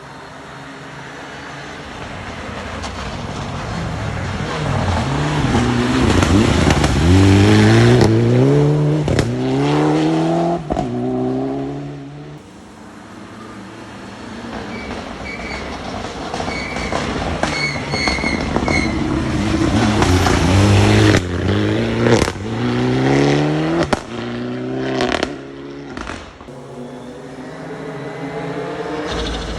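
Rally cars at full throttle on a forest special stage, coming through one after another: each engine grows louder as the car approaches and passes. The engine pitch climbs and drops back with each upshift. The first car's sound breaks off abruptly about twelve seconds in, and a second car then builds up the same way.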